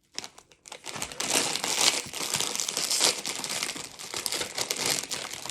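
Crinkly plastic chip bag of Cheetos being opened and handled, a dense crackling that starts just after a moment of silence.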